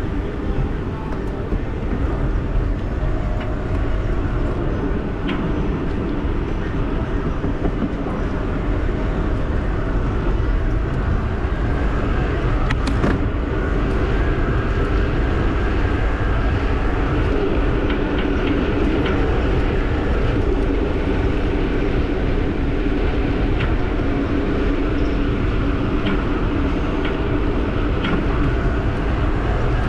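Giant e-bike ridden along a trail: steady wind rumble on the camera's microphone with a steady riding hum, and scattered faint clicks.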